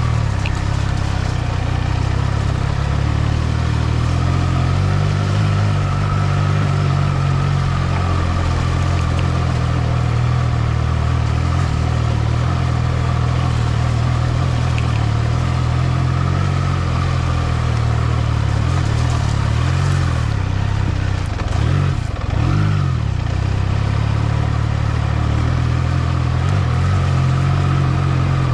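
Triumph Trident 660's inline three-cylinder engine running steadily as the bike is ridden, with a brief drop and rise in revs about three quarters of the way through.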